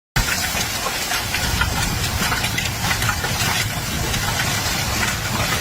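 Hurricane wind and driving rain: a steady, loud rushing hiss crackling with many small spatters.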